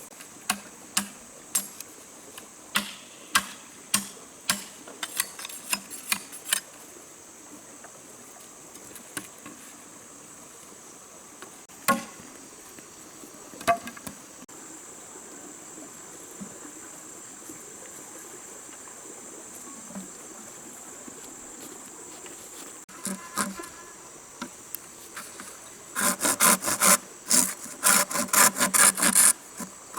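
Rainforest insects droning steadily at a high pitch, with sharp knocks and taps from hand work, first scattered, then a fast run of strokes over the last few seconds.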